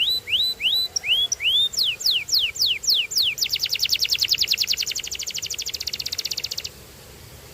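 Canary singing: a few separate rising whistles, then a run of quick falling sweeps, then a fast, even trill of rapidly repeated notes that stops about a second before the end.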